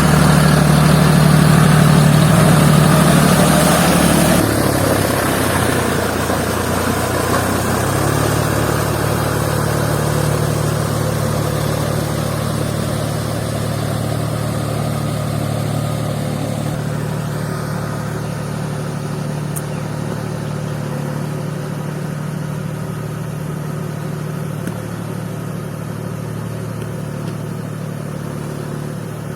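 John Deere 5050D tractor's three-cylinder diesel engine working in mud. It runs hard for the first few seconds, drops in pitch about four seconds in, then settles to a steady note that slowly fades.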